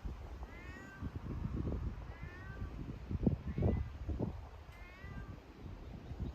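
A kitten meowing, about five short, high calls roughly a second apart. Low thumps and rustling run underneath.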